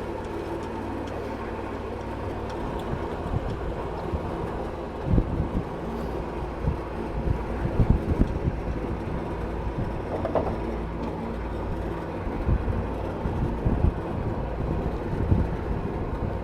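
A small motorboat's engine running steadily as the boat reverses away from the jetty, with occasional low thumps over it.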